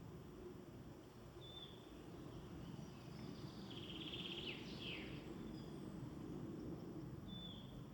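Woodland birds singing faintly: a short high call note repeats a few times, and a brief trilled phrase with falling sweeps comes about halfway through, over a steady low background noise.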